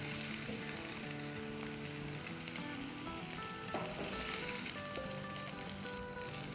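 Chicken meatballs sizzling steadily in hot oil in a frying pan after about five or six minutes of browning, with soft background music notes over it.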